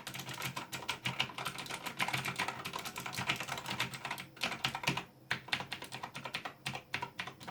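Rapid typing on a Razer BlackWidow Ultimate 2016 mechanical keyboard: a dense run of key clicks that thins to scattered presses with short pauses in the last few seconds.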